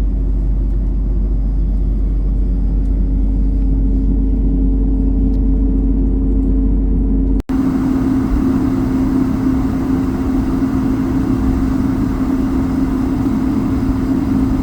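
Cabin noise inside an Airbus A220-300 on the ground: its Pratt & Whitney PW1500G geared turbofans running with a steady hum over a low rumble. An abrupt cut about seven and a half seconds in brings a hissier stretch of the same hum.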